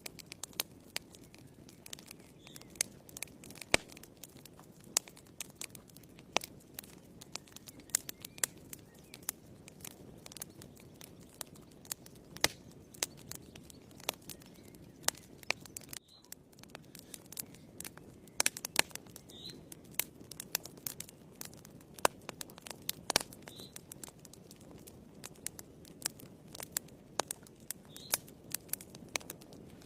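Firewood burning in a fireplace: irregular sharp crackles and pops over a low, steady rush of flame, with a few short hisses.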